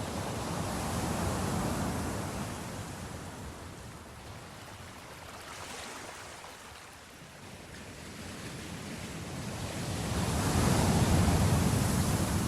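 Ocean waves breaking and washing on a shore: a surge about a second in, a lull, then a bigger wave building to its loudest about ten seconds in.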